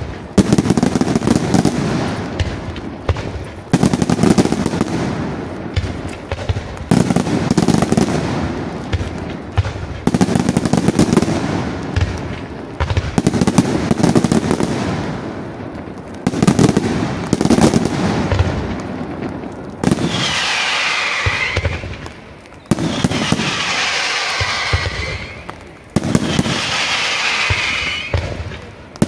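Senatore Fireworks aerial display: volleys of shell bursts and crackling reports, a new volley about every three seconds. About two-thirds through the bursts give way to long high hissing shrieks, three in a row, as rising tails climb into the sky.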